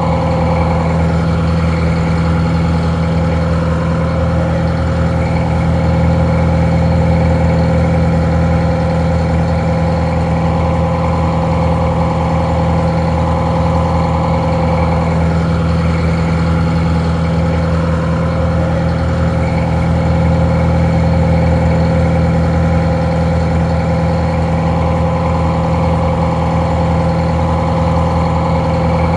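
Detroit Diesel 4-71 inline four-cylinder two-stroke diesel engine idling steadily, sounding a little muffled.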